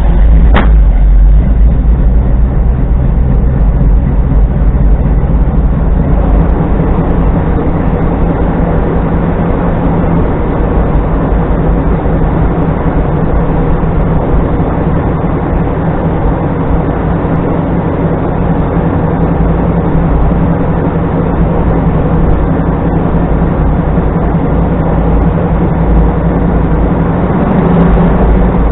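1982 Chevrolet K20's 5.7-litre small-block V8 running steadily just after a cold start, after sitting for a few weeks. A single sharp snap about half a second in.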